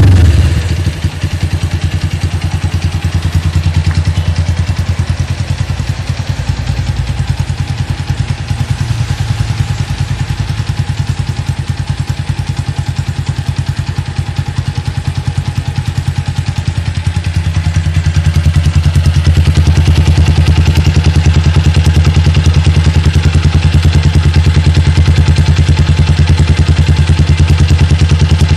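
Motorcycle running steadily through a custom aftermarket muffler, a deep, even exhaust note. It gets louder about eighteen seconds in and holds there. The recording breaks up in places because the phone's microphone overloads on the loud exhaust, not because of the exhaust itself.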